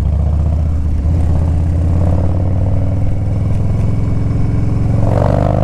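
Harley-Davidson Twin Cam 103 V-twin engine of a 2015 Dyna Street Bob, through an aftermarket Fab28 exhaust, running steadily under way.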